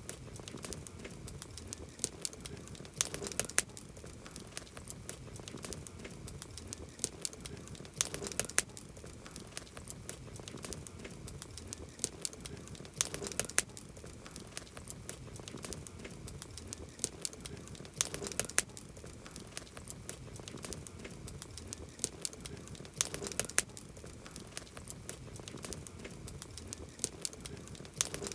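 Campfire wood burning and crackling, with sharp pops that bunch together about every five seconds over a steady background of softer crackle.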